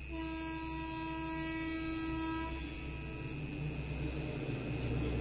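A steady high whine with several overtones stops about two and a half seconds in, while the low rumble and hiss of an approaching electric train grows steadily louder toward the end.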